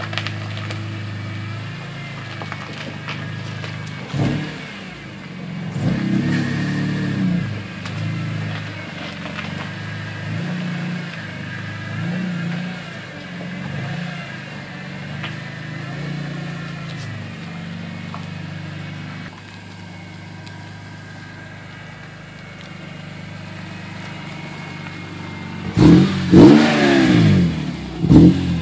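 BMW E46 M3's 3.2-litre inline-six running through an Agency Power aftermarket exhaust. It idles with a few light revs, then is blipped sharply twice near the end, the loudest part, with the pitch climbing and dropping quickly each time.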